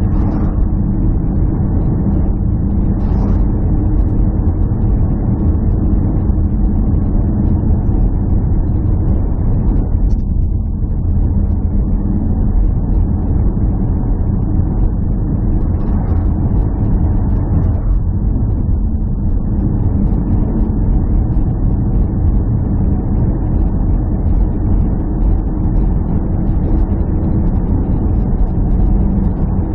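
An engine running steadily, a low drone that holds an even pitch throughout.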